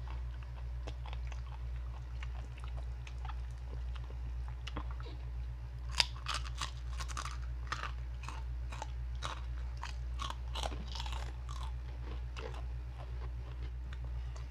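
Crispy pork rinds (chicharon) being bitten and chewed, a run of sharp crisp crunches that gets thickest from about halfway through, over a steady low hum.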